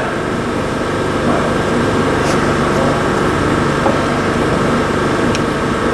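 A machine running steadily: a loud, even hum made of several steady tones over a rushing noise.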